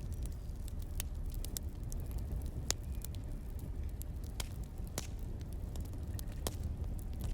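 Wood fire burning, a steady low rumble with sparse, irregular crackles and pops.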